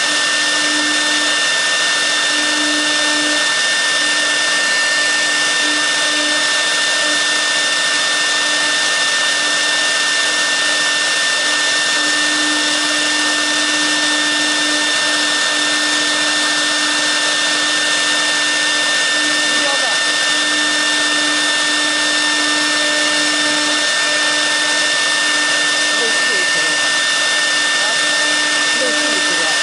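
6 kW air-cooled CNC router spindle running at speed with a steady high whine over the rush of its cooling fan, while a V-bit carves the workpiece.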